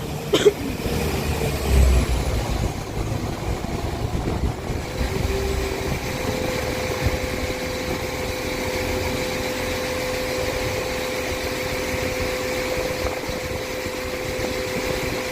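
Northern Class 195 diesel multiple unit's engines running as the train pulls out: a low rumble in the first couple of seconds, then a steady engine hum from about five seconds in.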